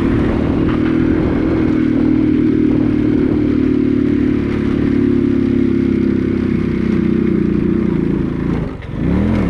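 A vehicle engine running at a steady speed; near the end its pitch dips briefly and then climbs again.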